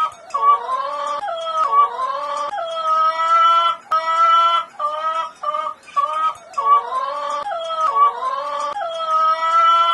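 Dog howling in a run of short pitched notes, sliding notes and long held notes. The same phrase comes twice.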